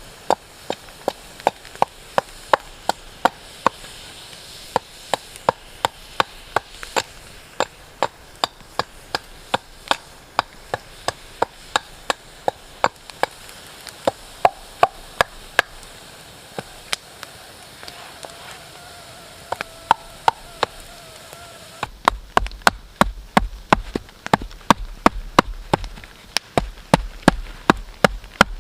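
A tool chopping into wood in quick repeated strokes, about two or three a second, as a wooden kuksa cup is roughed out. About two-thirds of the way through, the blows come faster and heavier, with a deeper thud.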